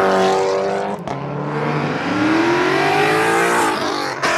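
A car engine revving hard as it accelerates away. Its pitch breaks off about a second in, then climbs steadily again, like a gear change.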